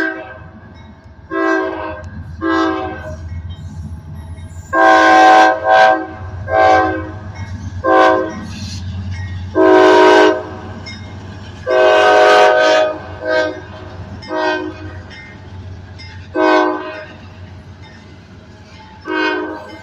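Diesel locomotive air horn sounding a long series of blasts, some short and some held for about a second, over the low rumble of the passing freight train.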